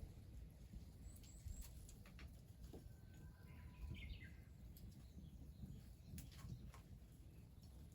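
Faint, near-silent ambience with a short faint bird call about three to four seconds in and a few scattered light clicks.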